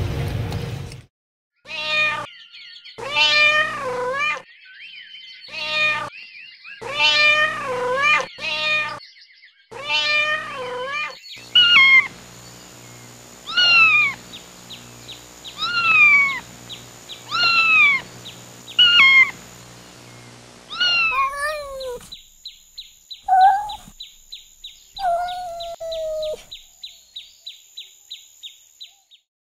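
Kittens meowing over and over, about a dozen separate calls, several of them falling in pitch. In the last few seconds a fast, even, high ticking runs under a few shorter mews.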